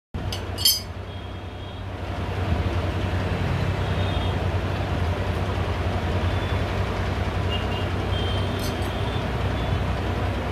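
Steady low rumble of road traffic, with a sharp knock just under a second in.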